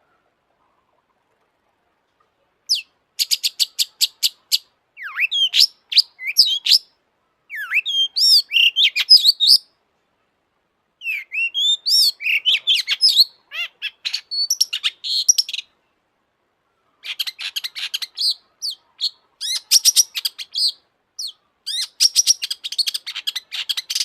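Long-tailed shrike singing: phrases of fast, clicky chattering mixed with whistled notes, separated by short pauses. The song starts after a few seconds of silence.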